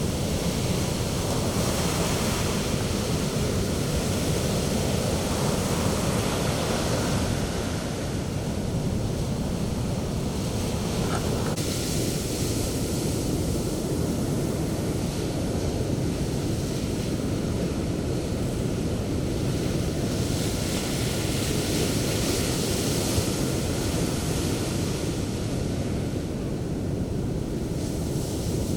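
Sea waves breaking and washing up a beach, a steady surf rush that swells as each wave breaks, with some wind on the microphone.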